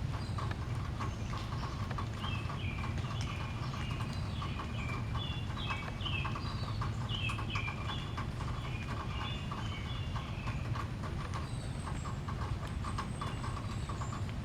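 Outdoor birdsong: a run of short chirps and song phrases, busiest in the middle, over a steady low hum with light clicks. A thin high tone comes in during the second half.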